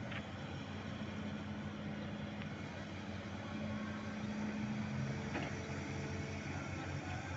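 Ship's machinery running with a steady hum, a lower tone joining about halfway through.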